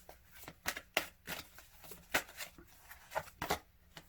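Oracle cards being shuffled by hand: a string of irregular sharp card flicks and snaps.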